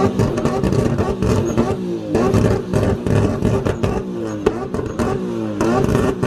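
A car engine revved over and over, its pitch rising and falling roughly once a second, with sharp crackles among the revs.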